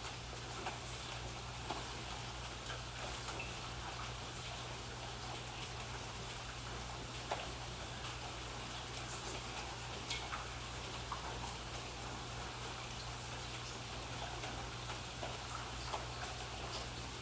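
Steady rain falling, with many separate drops ticking and dripping onto surfaces at irregular moments.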